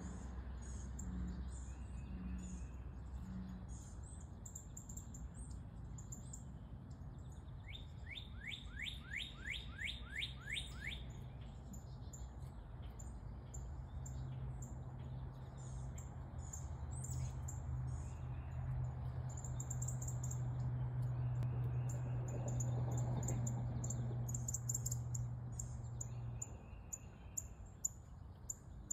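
Songbirds chirping throughout, with one quick run of about ten falling notes in the first half. A low steady hum comes in about halfway and stops shortly before the end.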